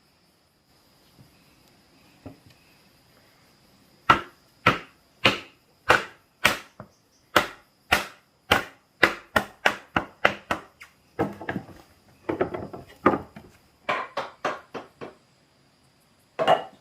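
A hand tool striking wood in a steady run of sharp blows, about two a second, then a quicker flurry of blows, and one last blow near the end.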